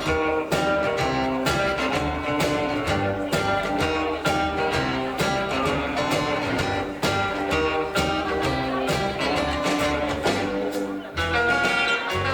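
Live rockabilly band playing an instrumental passage: guitar over bass and drums with a steady beat.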